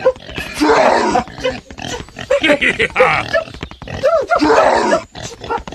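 Repeated grunting and squealing animal-like calls: three loud, rough bursts about a second long, with shorter pitched calls between them.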